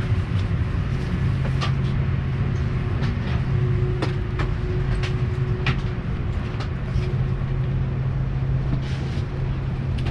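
Steady low hum inside an airliner cabin during boarding, with scattered light clicks and knocks.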